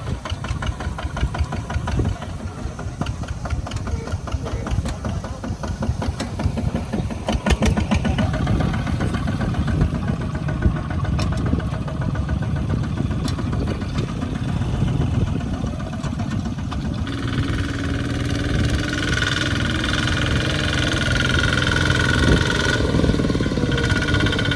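Small farm tractor engine running with a rapid, knocking firing beat. About two-thirds of the way in, a steady higher whine joins it.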